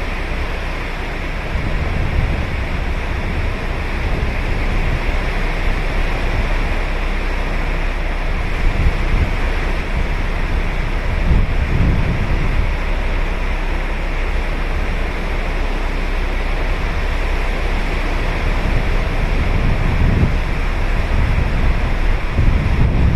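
Ocean waves breaking and washing on a sandy beach in a steady surf, with several low surges as waves come in, and wind buffeting the microphone.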